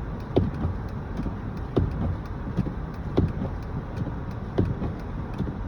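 Inside a car's cabin: a steady low rumble from the vehicle, with a regular knock about every one and a half seconds and fainter ticks between the knocks.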